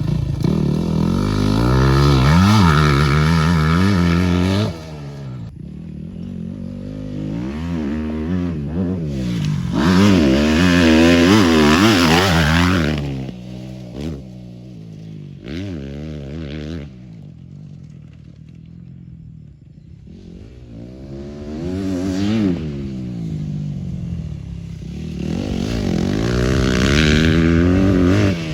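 Motorcycle engines revving up and backing off again and again as the bikes ride laps, growing loud as they pass close and fading between passes.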